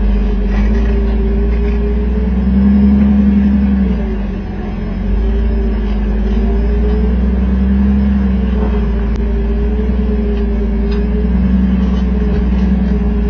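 Jeep engine running at low revs, its pitch swaying slightly up and down, with a brief easing off about four seconds in.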